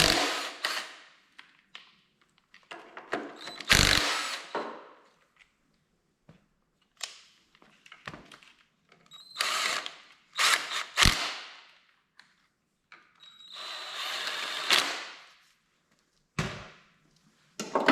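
A power tool runs in three short bursts of a second or two each, spinning bolts out of the starter-generator bracket on a Kohler K241 engine. Sharp metal clinks fall between the bursts.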